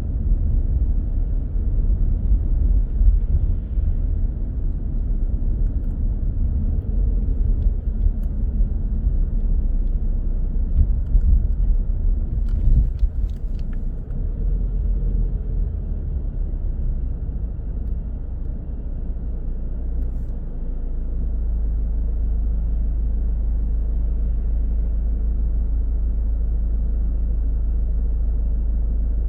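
A car driving, with a low rumble of road and engine noise that is uneven for the first twenty seconds and settles into a smooth, steady drone for the rest.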